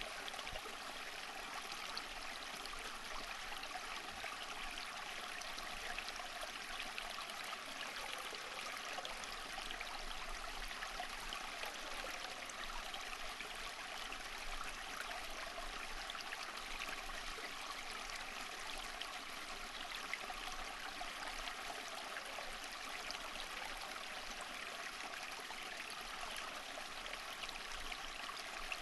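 Running water of a stream flowing steadily, with a fine trickling, splashing texture.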